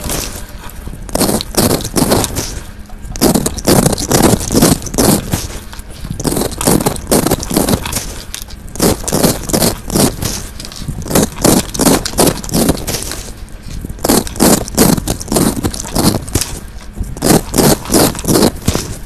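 Fidget toys being scratched and scraped by hand in quick runs of strokes, about four or five a second, with short pauses between runs.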